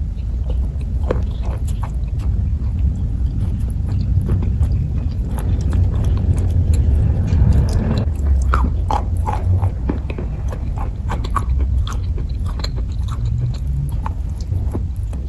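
Close-miked chewing of kaju katli, a soft cashew fudge: many small wet mouth clicks and smacks over a steady low rumble.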